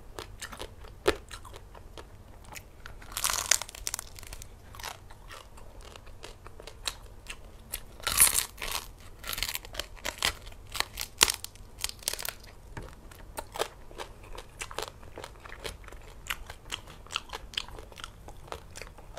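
Close chewing and crunching of roasted pork: a steady run of small wet clicks, with louder crunchy bites about three seconds in and again about eight seconds in.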